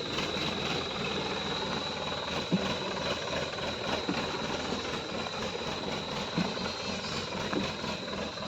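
DI-47 tractor's diesel engine running steadily, with a thin high whine over it and a few short knocks about two and a half, four and six seconds in.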